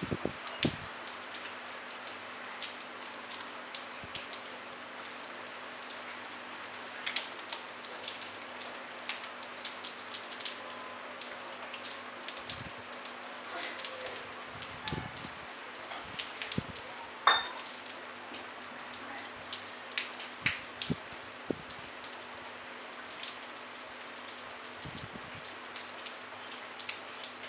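Light rain falling with no thunder: a soft, even hiss with scattered individual drops ticking close by on the brick parapet.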